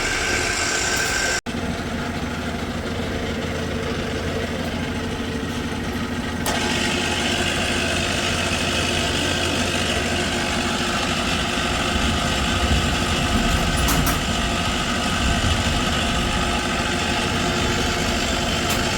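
Milling-drilling machine's geared head running at high speed, with a steady, loud gearbox noise that the customer complains of as excessive. There is a brief break about a second and a half in, and the noise grows brighter and louder from about six seconds in.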